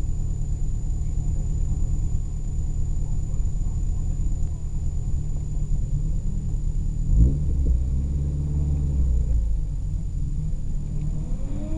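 Car engine idling, heard from inside the cabin as a low, steady rumble. A quick rev about seven seconds in, and a rising engine note near the end.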